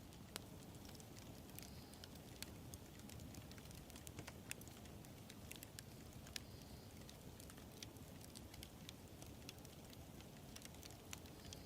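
Wood fire burning quietly, with a low steady rumble and frequent sharp pops and crackles at irregular intervals.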